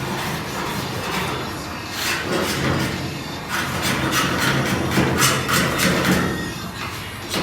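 Repeated scraping strokes of a hand tool worked over metal, about two or three a second through the second half, over a low steady hum.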